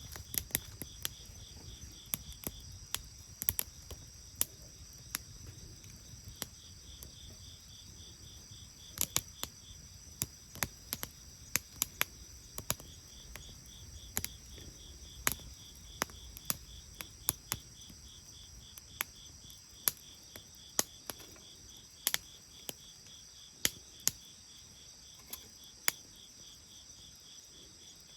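Wood bonfire crackling, with irregular sharp pops scattered throughout. Crickets chirp steadily in a high pulsing trill underneath.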